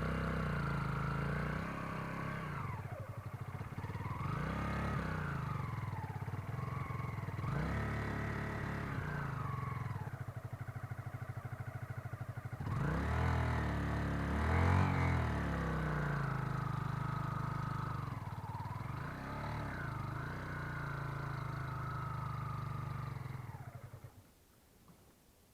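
Motorcycle engine revved up and down again and again, each rise lasting a second or two, as the bike is eased up into a minibus on a slipping clutch. The engine cuts off near the end.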